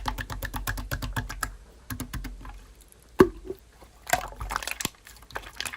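Slime being played with: quick runs of small wet clicks and pops, with one sharper pop a little past the middle.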